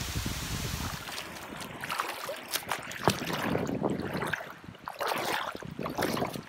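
Heavy thunderstorm rain falling. About a second in it gives way to irregular water splashing and dripping.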